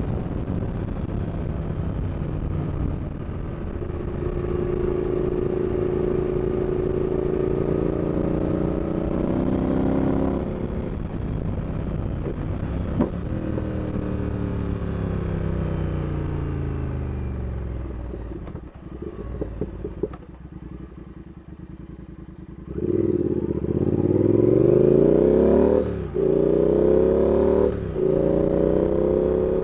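Triumph Speed Twin 1200cc parallel-twin engine and exhaust under way: revs climb, drop off and fall away on the overrun, then the bike accelerates hard about two-thirds through with two quick gear-change breaks.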